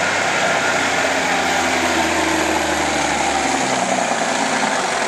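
Semi truck diesel engine running steadily, its pitch easing down over the last couple of seconds as it winds down.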